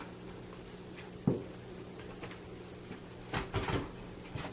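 A single knock a little over a second in, then a short cluster of soft thumps and scuffs about three and a half seconds in, over a low steady hum.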